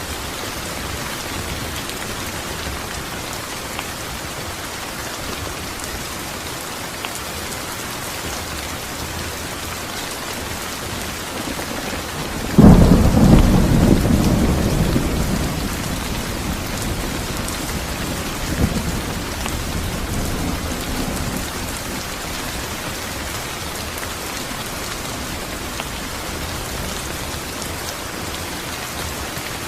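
Steady heavy rain with a thunderclap: a sudden loud crack about halfway through that rolls into a low rumble fading over several seconds, then a fainter roll of thunder a few seconds later.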